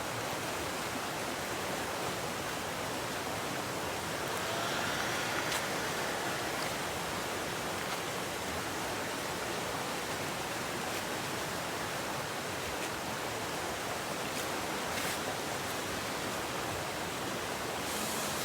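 Steady rushing of flowing river water, swelling slightly about five seconds in.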